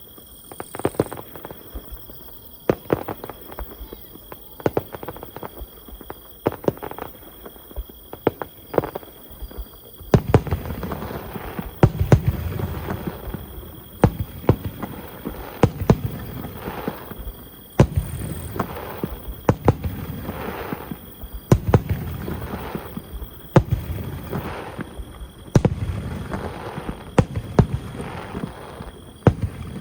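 Fireworks shells bursting. About ten seconds of lighter, scattered sharp pops and bangs, then loud booming bursts roughly every two seconds, each with a low rumble trailing after it.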